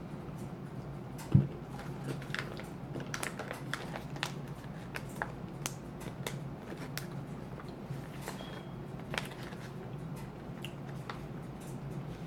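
Sriracha roasted cashews being crunched and chewed, with scattered small clicks and crackles and one sharp knock about a second and a half in.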